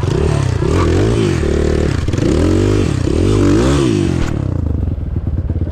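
Off-road vehicle's engine revving hard in repeated surges, its pitch climbing and falling about four times, with a rushing noise over it. The rushing cuts off about four seconds in and the engine settles back to a lower, steady run.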